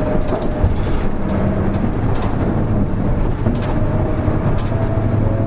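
Cabin running sound of a Hino Rainbow HR (KL-HR1JNEE) city bus under way: a steady diesel engine drone with a faint whine above it, and brief high rattles about once a second.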